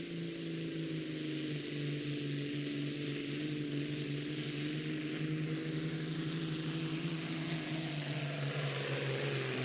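Peterbilt Pro Stock semi truck's diesel engine running hard under load as it pulls the sled, a steady drone whose pitch slowly sinks as the load builds. A thin high whine sits above it.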